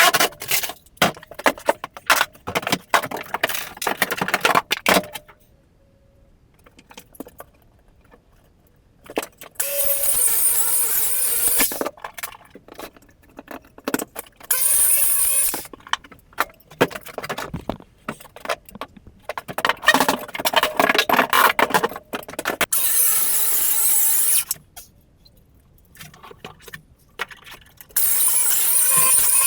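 Demolition of an old bathroom floor: a rapid run of knocks and clatter, then after a short lull several harsh bursts of noise, each one to three seconds long, from tools tearing through the floor.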